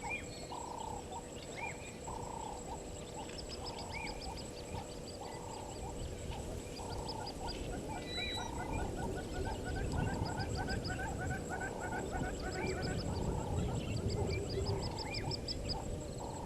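Waterhole wildlife chorus: a short low call repeated about once a second, with bird chirps and rapid trills above it and a steady high insect whine. A low rumble builds in the second half.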